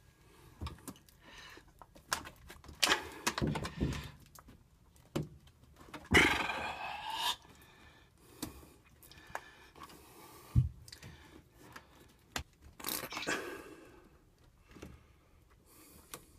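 Handling noises from work on a washing machine's diverter valve: scattered clicks and knocks of plastic parts and clamps, several longer scraping passages, and a dull thump about ten and a half seconds in.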